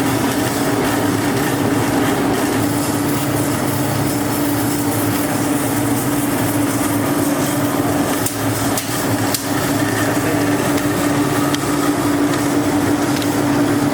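Workshop machinery running with a steady hum over a loud noisy din, with a few sharp metal knocks about nine seconds in.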